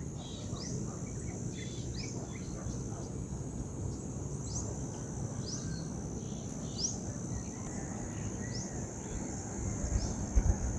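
Mountain morning ambience: insects keep up a steady high-pitched trill while a bird repeats a short upward-sweeping call about once a second. Underneath is a low rumble of wind, with a few heavy low thumps near the end.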